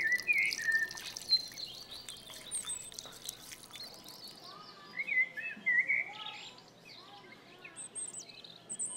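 Birds chirping and calling: short notes that slide up and down, scattered throughout, with a louder run of chirps about five to six seconds in.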